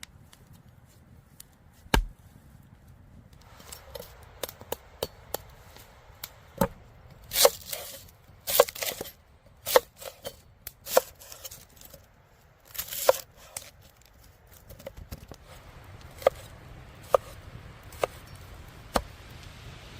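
Food being chopped with a knife on a cutting board: irregular sharp knocks, a single loud one about two seconds in, a quick run of them in the middle, and scattered strokes near the end.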